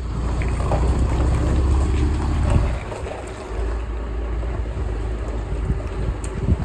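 Vehicle on the move: steady low engine and road rumble with an even haze of noise over it, easing briefly about halfway and ending with a sharp knock.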